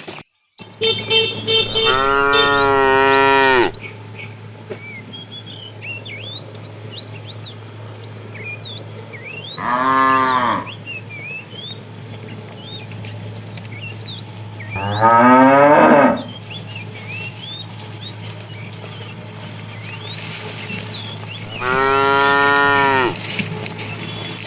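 Cattle mooing four times, each a long, drawn-out moo of about one to two seconds, spaced several seconds apart. Small birds chirp in the background between the calls.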